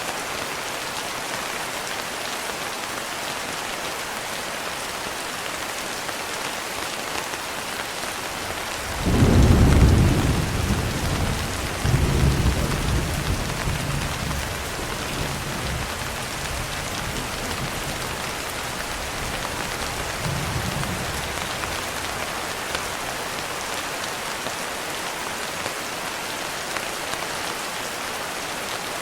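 Steady rain pattering on a window, with thunder: a sudden loud low rumble about nine seconds in, a second rumble a few seconds later that fades slowly, and a fainter one about twenty seconds in.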